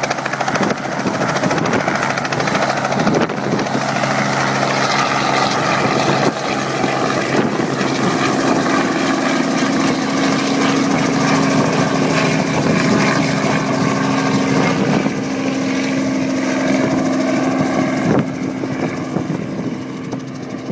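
Helicopter running: a steady drone of engine and rotor with a humming tone that grows stronger about eight seconds in, easing off a little near the end.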